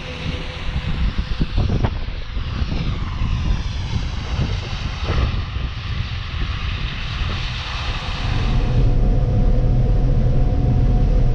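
Tractor engine running steadily, growing louder about eight and a half seconds in.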